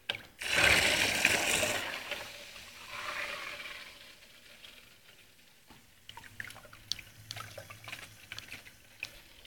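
Water rushing loudly through two homemade HDD-motor pumps run in series. The rush starts about half a second in and fades over the next few seconds, leaving a quieter stretch with scattered light ticks.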